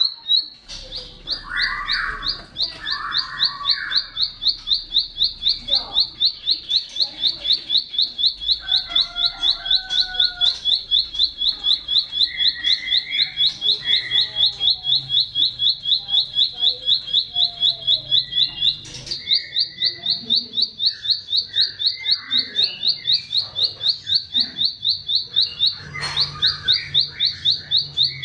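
Ciblek sawah (a small prinia) singing a long, fast run of evenly repeated high notes, broken off briefly twice and taken up again, with other birds chirping more softly underneath.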